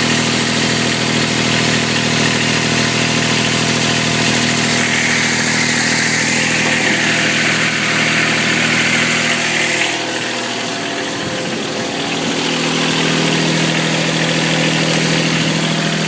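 Kubota tractor's diesel engine running steadily; about ten seconds in its note drops and then settles at a different pitch. It is a high-hour engine, about 5,400 hours, that the owner says runs and sounds like new.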